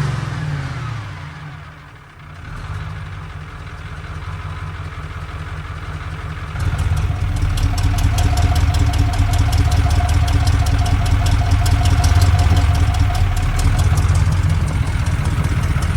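Cummins diesel engine of a dump truck, running after a cold start: its revs fall back in the first second or so, then it idles with a steady diesel clatter. The clatter is louder from about six and a half seconds in.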